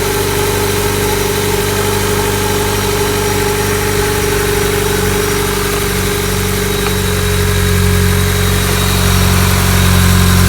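Honda Accord's engine idling steadily just after starting, its hum growing louder and deeper about seven seconds in.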